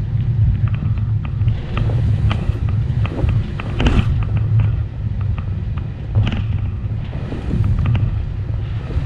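Steady low rumble inside the cabin of a British Airways Airbus A320 taxiing, its engines and wheels running, with scattered knocks and rattles from the cabin as it rolls.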